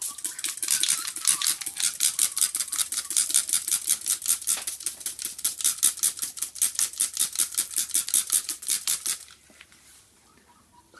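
Hand spray bottle pumped rapidly onto a car windscreen, a fast even run of hissing squirts, about six a second. It stops about nine seconds in.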